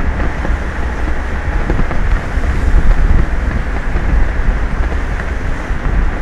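Wind buffeting an outdoor microphone: a loud, steady rumble heavy in the low end, with a hiss of wind and sea noise above it.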